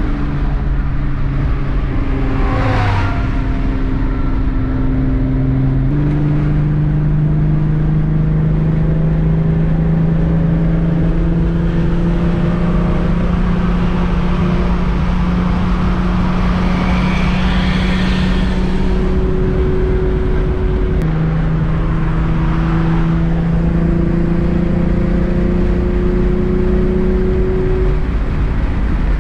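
Interior sound of a VR6-swapped Mk3 Volkswagen at motorway speed: a steady engine drone over tyre and road rumble. The engine note steps up about six seconds in and dips briefly about two-thirds of the way through. A few passing cars swish by.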